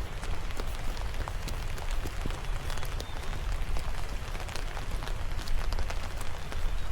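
Light rain falling, with many separate drops ticking close by at irregular moments over a steady low rumble.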